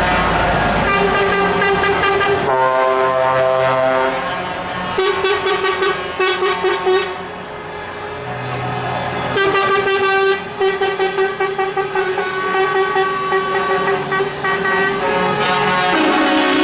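Truck air horns sounding over passing traffic: long held blasts of several tones at once, broken by runs of quick repeated blasts, about three a second.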